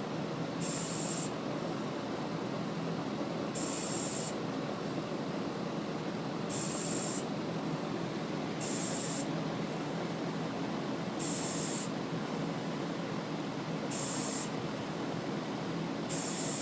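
HVAC unit's R-410A compressor running with a steady loud drone and hum, broken every two to three seconds by a short high-pitched hiss: a noise the owner suspects means a bad compressor.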